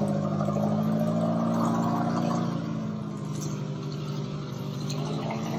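Tut Truck amphibious vehicle's engine running steadily under load as it drives through water, easing slightly in the middle and picking up again near the end.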